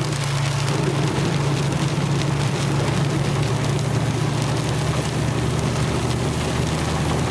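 A truck driving in heavy rain on a flooded road: a steady engine and road drone under a dense hiss of rain and water hitting the vehicle.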